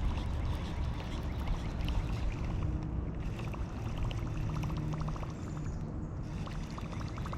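Wind buffeting the microphone in a steady low rumble, with small water sounds lapping and trickling against a kayak's hull.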